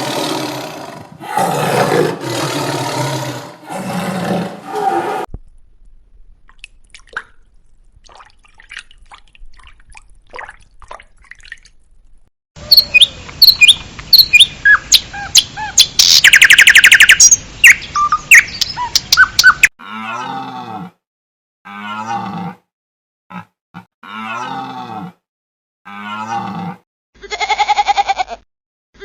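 A run of different animal calls. First come several loud, rough calls. After a quiet stretch of faint clicks there are chirping bird calls and a rapid rattling trill. Then a series of short pitched calls follows, about one every second.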